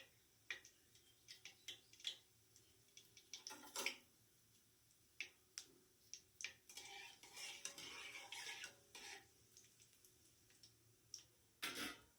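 Metal cooking utensils clinking against a pot or pan: scattered light knocks, with a longer stretch of scraping or stirring around the middle.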